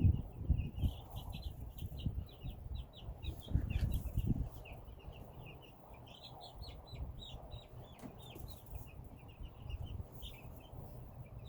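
A brood of week-old Cornish Cross chicks peeping constantly, many short high cheeps overlapping. Low bumps and rustling of the chicks being handled sound over the first four seconds or so, then only the peeping.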